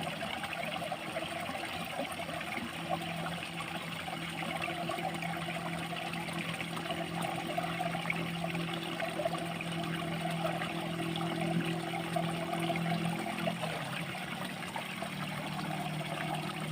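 Water trickling and running steadily in a flooded rice paddy, with a steady low hum underneath that changes about three-quarters of the way through.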